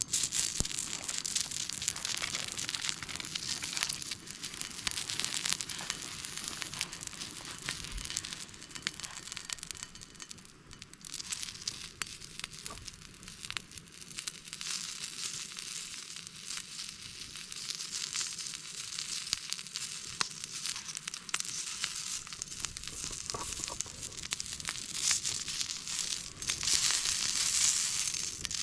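Food sizzling and crackling in a pan over a campfire: a continuous hiss full of small pops.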